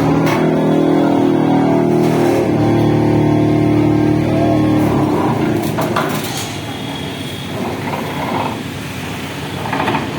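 A heavy engine running loud and steady at a constant pitch for about five seconds, then dropping back to a rougher, quieter running, with a sharp knock about six seconds in.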